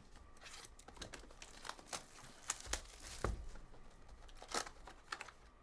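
Trading card pack wrappers being handled and torn open: quiet, irregular crinkling and tearing with scattered small clicks.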